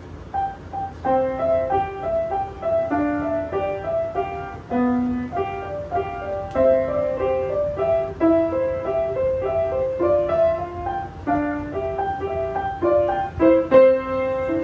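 Solo piano playing a quick etude: a steady stream of separate, fast notes in the middle register.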